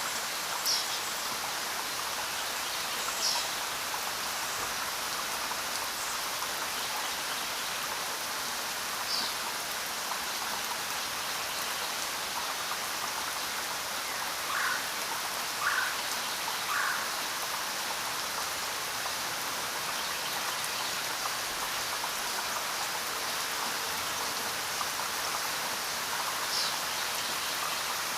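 Steady rain falling, an even hiss, with a few brief sharper sounds standing out above it: one near the start, three close together around the middle, one near the end.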